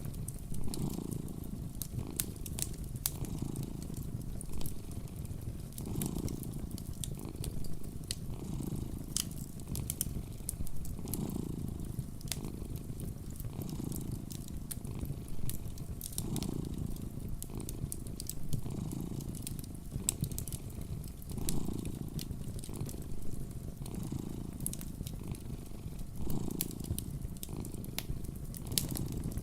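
A cat purring steadily, the purr swelling and fading with each breath about every two and a half seconds, while a wood fire crackles with frequent small sharp pops.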